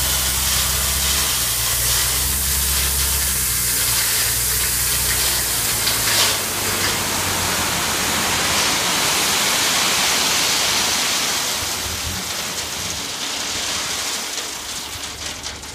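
A load of rock pouring out of a tipped dump truck bed, a continuous loud rushing that eases off near the end, with the truck's diesel engine running under it for about the first half.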